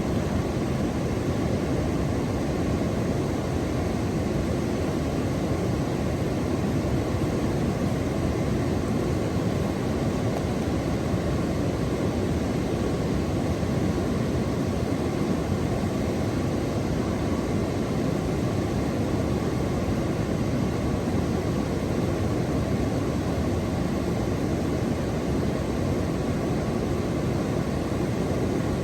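Steady, even rushing noise, heaviest in the low range and unchanging throughout, with no separate calls or knocks.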